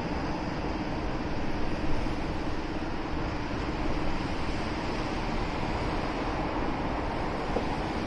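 Steady motorcycle ride noise heard from the bike: engine and wind noise mixed with city traffic, holding at an even level with a faint steady hum.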